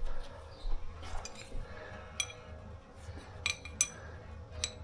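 A few sharp, ringing metallic clinks, spread through the stretch, of metal tools or fittings being handled, over a low steady hum.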